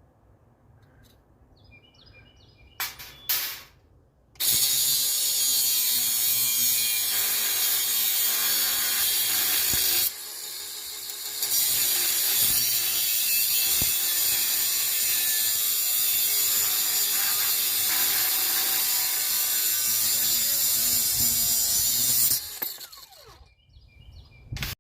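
A power tool working metal: after a couple of short knocks, it runs loud and steady for about eighteen seconds, easing off briefly about ten seconds in before picking up again and then stopping.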